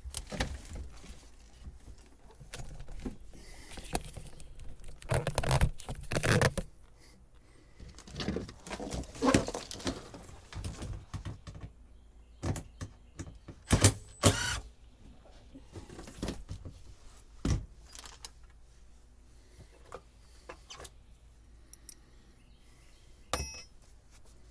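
Irregular rustling, clicks and clinks of old boat wiring being pulled and handled, with louder bursts of clatter around a quarter of the way in and just past halfway, and a sharp click near the end.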